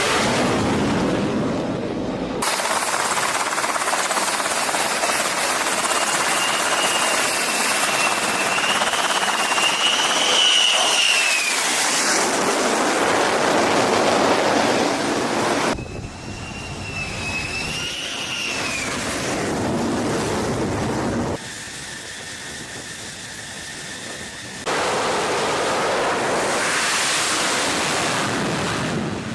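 F-35C Lightning II's single Pratt & Whitney F135 jet engine running loud, in several shots cut together with sudden changes in level. A high turbine whine rises and falls twice along the way.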